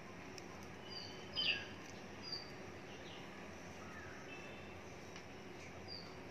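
Birds chirping in the background: a few short, high chirps and brief falling notes, the loudest about a second and a half in, over a steady low hiss.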